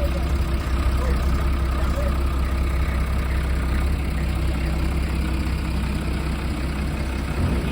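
Heavy engines of an excavator and a stuck truck running steadily, a low even drone with no revving or change.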